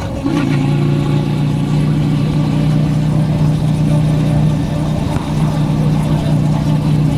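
Motorcycle engine running steadily while riding. Just at the start the sound dips briefly and the engine note falls to a lower pitch, then holds steady.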